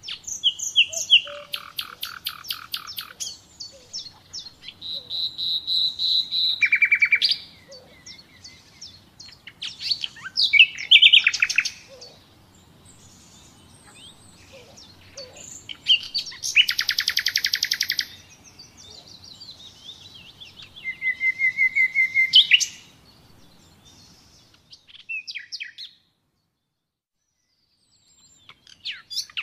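Common nightingale singing: a string of varied phrases of fast repeated notes, clear whistles and loud rattling trills, with short pauses between them. The song stops completely for about two seconds near the end, then a short phrase starts again.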